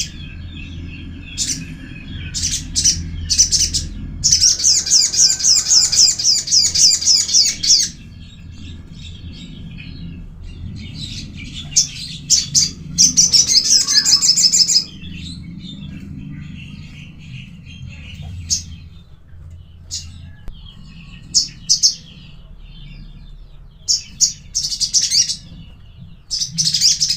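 Little spiderhunter (sogon) calling: short, sharp high chirps throughout, with two long rapid trills. The first trill comes about four seconds in and lasts nearly four seconds; the second comes about thirteen seconds in and lasts about two seconds. A low steady hum runs underneath.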